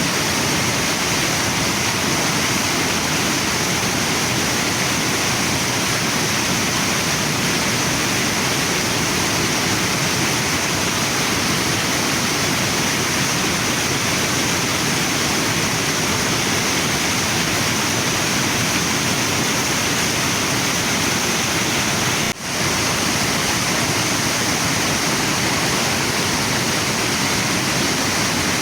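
Waterfall and river water rushing steadily, with one momentary dip in level about three-quarters of the way through.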